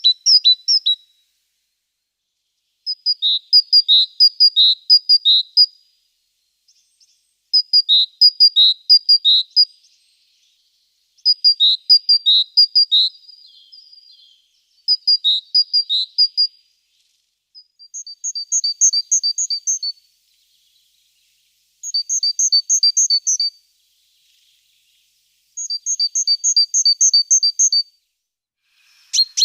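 A small songbird singing a repeated song: phrases of rapid, high two-note repeats, each about two seconds long, coming every three to four seconds. From about eighteen seconds in, the notes sit higher and form even pairs.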